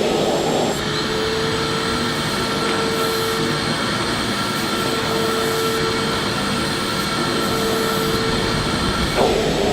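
Electric vacuum cleaner running steadily: a continuous rush of air with a steady motor whine. The whine drops out briefly into a rougher rush just after the start and again near the end.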